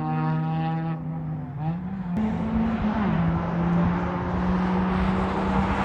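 Sports car engine running hard: a steady note, then climbing in pitch, with a sudden drop about three seconds in as the car shifts gear, before it climbs again over the rush of wind and tyres.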